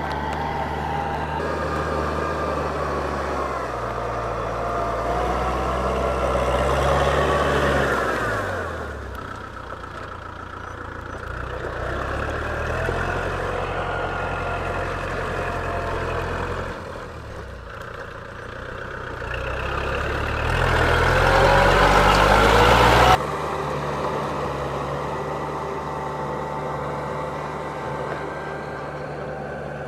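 A motor engine running steadily, speeding up twice: once about seven seconds in and again about twenty-one seconds in. The louder stretch cuts off suddenly a little after twenty-three seconds.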